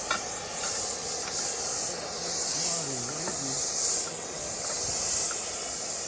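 Gas torch hissing steadily, swelling and easing every second or so, with a few faint metallic ticks.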